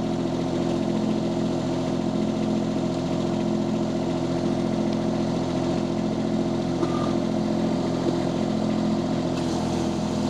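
Mini skid steer loader engine running at a steady speed, a constant drone with no change in pitch.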